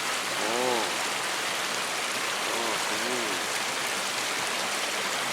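Steady rush of flowing water in a stream channel, with a man twice calling out a short word over it.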